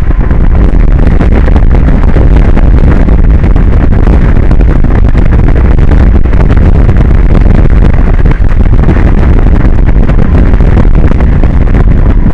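Strong wind blasting an exposed microphone: loud, unbroken rumbling noise, heaviest in the low end.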